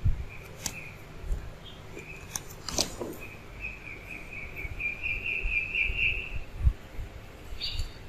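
Small bird chirping, with a longer run of quick trilling chirps in the middle. A few low thumps, the loudest right at the start and about six and a half seconds in.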